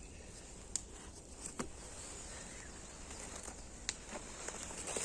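Quiet forest ambience with faint birdsong high in the background and four sharp clicks spread through it.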